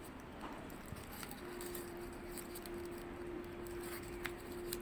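Faint rustling and light crackling of paper origami units being folded and pressed by hand. A steady low hum comes in about a second and a half in.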